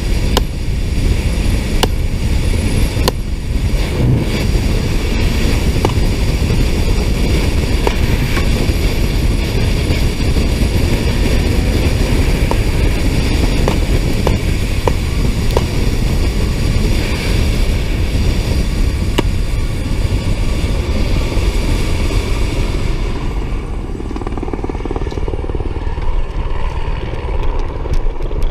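Police motorcycle running at speed, its engine and the rushing wind loud on the rider's camera; the wind noise eases about 23 seconds in.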